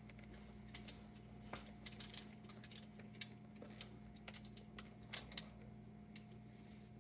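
Faint, scattered light clicks and taps of a utensil working thick peanut butter fudge in a lined baking pan, over a steady low electrical hum.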